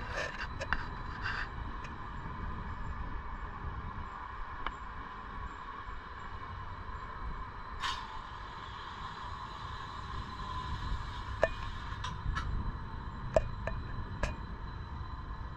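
Vy electric multiple-unit passenger train rolling past on the rails: a steady low rumble of wheels with a faint electric hum. A few sharp clicks and squeaks come from the wheels in the second half.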